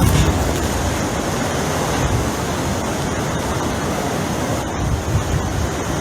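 Hurricane wind blowing steadily and loudly, buffeting the microphone with an irregular low rumble.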